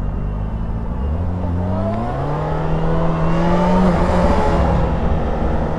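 2006 Yamaha FZ6's inline-four engine accelerating: its pitch climbs steadily from about a second in, then holds at a steady cruise with a brief dip near the middle, over a rush of wind noise.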